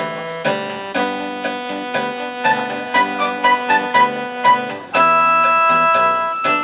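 Instrumental interlude of a Taiwanese ballad played on keyboard. Chords are struck about twice a second, a short melody of higher notes runs through the middle, and a chord is held near the end.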